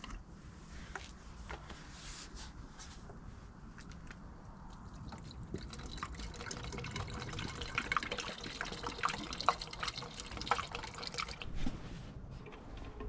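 Liquid being poured into a BMW X3's nearly empty coolant expansion tank, refilling the cooling system, with many small splashes that grow busier from about halfway through.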